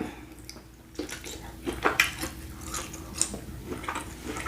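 Scattered small clicks, taps and wet handling sounds of a seafood boil being eaten at the table, with light clinks of dishes and cutlery.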